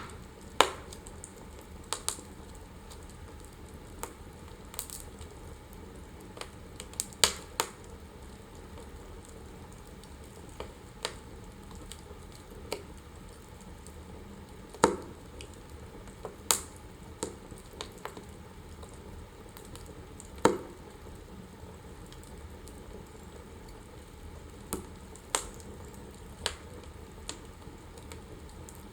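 Wood fire burning in a fireplace: a steady low hiss with irregular sharp crackles and pops every second or two.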